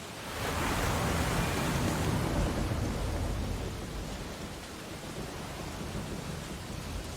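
Ocean wave breaking on the shore: a rush of surf rises about half a second in, holds for a couple of seconds, then slowly washes away into a steady surf hiss.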